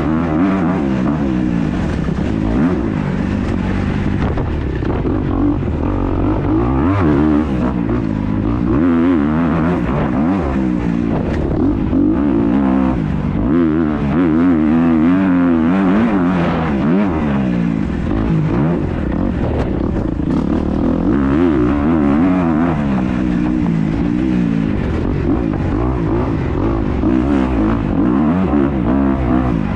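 Dirt bike engine on a motocross lap, revving up and down continuously as the rider accelerates and backs off through the track, heard close from the onboard camera with wind noise.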